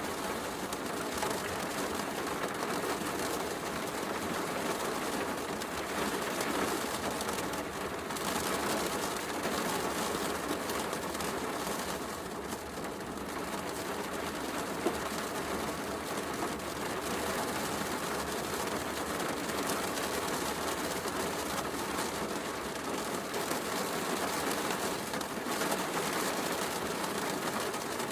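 Steady heavy rain mixed with a crackling wood fire in a fireplace, with one sharp pop from the fire about halfway through.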